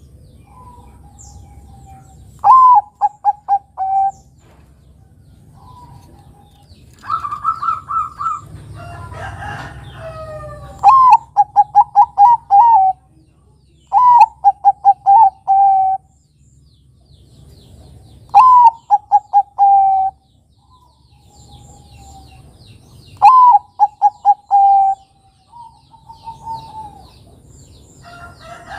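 Bangkok-strain zebra dove (perkutut) singing its cooing song phrase five times. Each phrase is a higher opening note followed by a quick rolling run of four or five lower coos.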